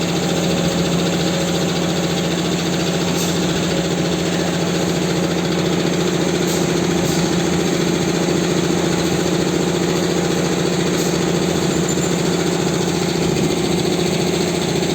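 JBJ-7 automatic roll packing machine running: a steady, loud mechanical drone, with a few faint clicks along the way.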